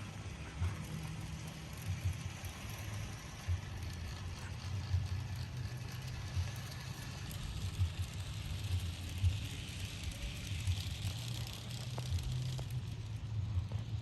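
Battery-powered Temi Railking toy electric train running along its track: a steady low motor hum with irregular small clicks from the wheels, getting a little brighter and hissier around ten seconds in.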